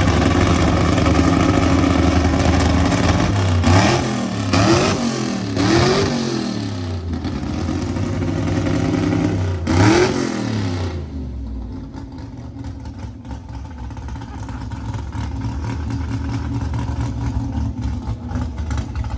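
A car engine running, revved in four short throttle blips, three close together about four to six seconds in and one near ten seconds, then settling to a quieter, steady idle.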